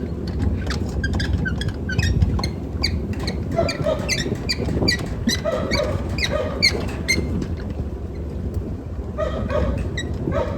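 Chickens clucking, many short irregular calls, over a steady low rumble.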